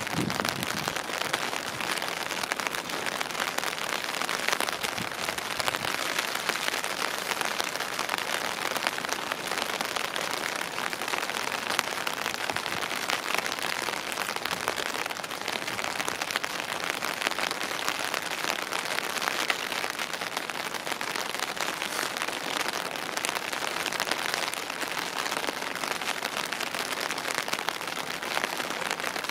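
Steady rain falling on a wet road and hard surfaces, a continuous hiss made up of many small drop hits.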